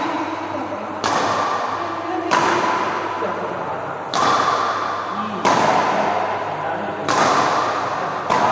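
Badminton rally: a racket striking the shuttlecock about every one and a half seconds, each hit sharp and followed by a fading hiss, over a steady background hiss.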